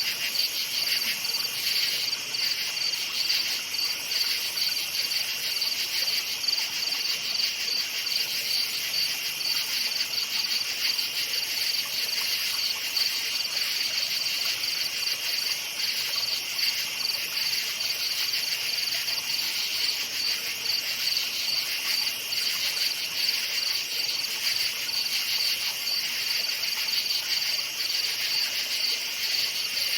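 Night crickets chirping in a steady, continuous chorus of many fast-pulsing high calls layered together.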